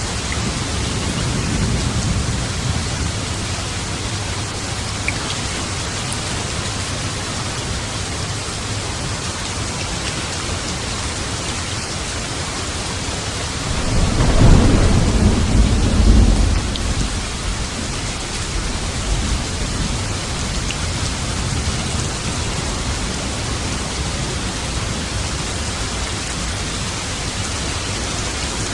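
Steady rain falling, with a loud rumble of thunder about halfway through that swells and fades over about three seconds.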